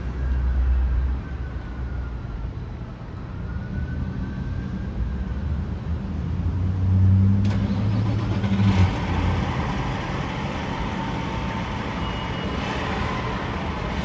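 Heavy fire truck engine running and pulling out, swelling and rising in pitch about halfway through, then easing off. A faint siren wails in the first few seconds.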